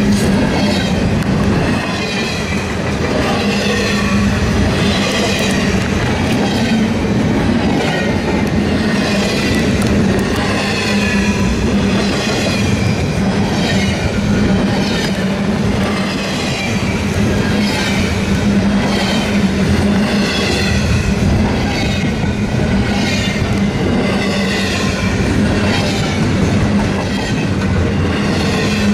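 Double-stack container freight train rolling past, its cars' wheels clattering in an even rhythm about once a second over a steady low hum.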